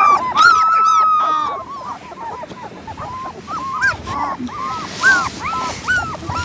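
Young German Shepherd puppies whimpering and crying, many short high-pitched cries overlapping. The cries are loud and dense in the first second or two, then thin out into scattered whines.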